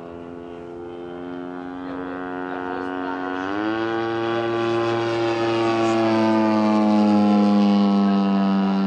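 Propeller engine of a large-scale RC Super Decathlon model plane, running with a steady tone that steps up in pitch about three and a half seconds in as the throttle opens. It grows louder as the plane comes closer, then drops slightly in pitch and eases near the end as it passes.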